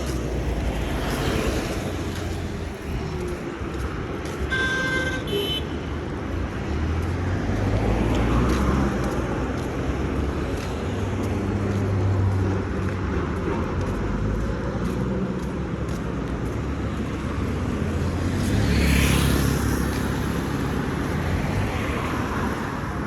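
Street traffic: motor vehicles rumbling past one after another, swelling as each goes by, with a short horn toot about five seconds in.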